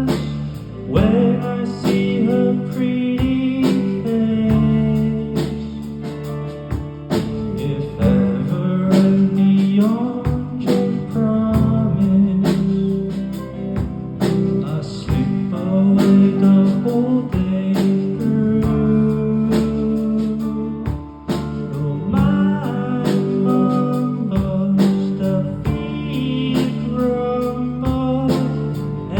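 Band playing an instrumental stretch of a song: a guitar lead with bending, gliding notes over bass and a steady drum beat.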